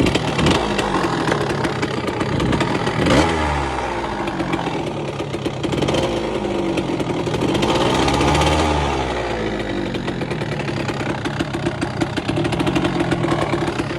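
KTM motorcycle engine running just after being kick-started, idling unevenly and revved twice: a quick blip about three seconds in and a longer rev rising and falling a few seconds later.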